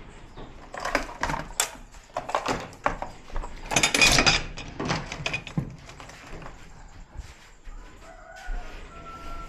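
Clatter and knocks of metal parts being handled and fitted into a TV during reassembly, with a louder scraping clatter about four seconds in. A faint steady high tone sounds near the end.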